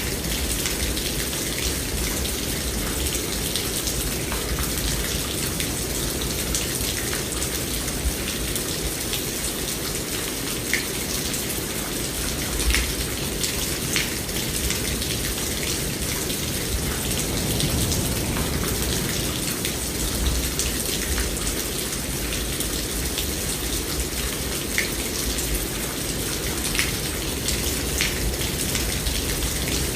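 Steady rain: a constant hiss of falling water with individual drops ticking sharply here and there, over a steady low rumble.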